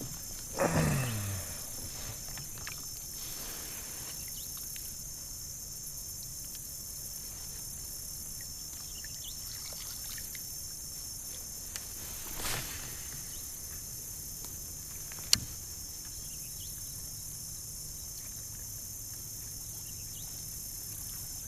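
Steady high-pitched buzzing chorus of insects. About halfway through there is a brief whoosh, and a few seconds later a single sharp click, the loudest sound.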